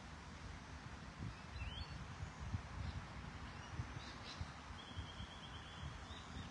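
Birds calling: a few short chirps, then near the end a rapid trill lasting about a second, over a low uneven rumble.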